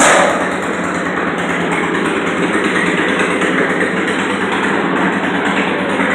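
Garden pulling tractor's small engine running loud and hard at high revs, with a sudden surge right at the start.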